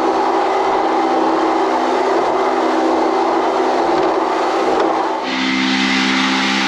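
A boat's engine running at speed with a steady hum, under rushing wind and water as the hull runs through choppy sea. About five seconds in the rushing noise drops away and the engine hum comes through more clearly.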